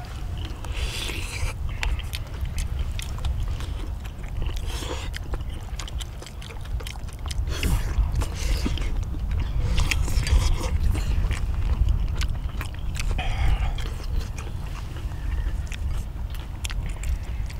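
People chewing and eating spicy stir-fried chicken and udon noodles, with wet mouth sounds and repeated small clicks of wooden chopsticks against bowls and the cast-iron pan, over a steady low rumble.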